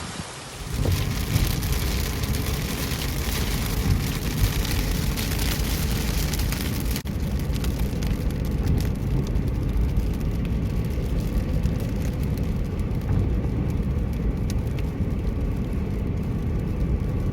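Car driving through heavy rain: a steady low rumble of engine and tyres under the hiss and patter of rain on the car.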